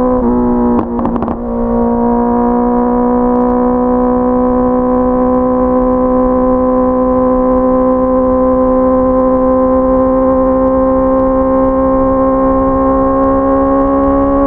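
Honda CBR650R inline-four engine running at high revs under way, with wind noise underneath. The note breaks briefly about a second in, then holds steady with its pitch creeping slowly upward.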